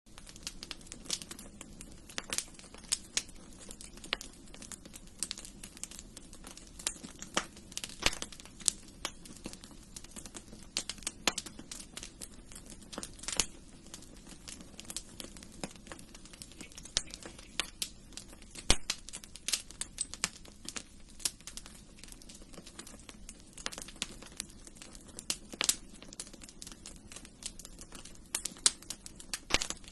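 Wood fire burning in a fireplace, crackling steadily with irregular sharp pops and snaps over a soft low rush of flames.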